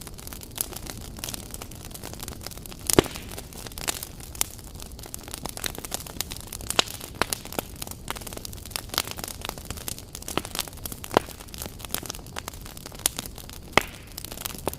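Wood campfire crackling: irregular sharp pops and snaps over a steady hiss, the loudest pop about three seconds in.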